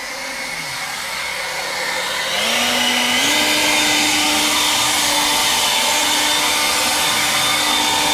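EGO LB5302 cordless battery leaf blower running, a steady rush of air with a fan whine that rises in pitch and gets louder about two to three seconds in as it speeds up, then holds steady at the higher speed.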